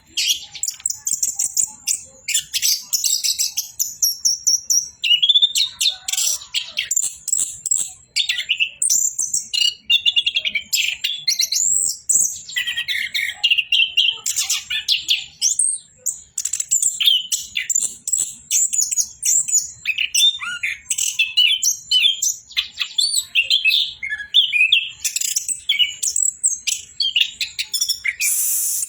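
Orange-headed thrush (anis kembang) singing in a long unbroken run of rapid, varied chirps, whistles and trills, the full 'ngerol' song of a bird in top singing form.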